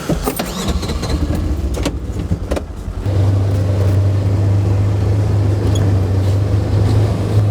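Motor vehicle driving, heard from inside, with knocks and rattles for the first few seconds, then a steady low engine and road drone from about three seconds in.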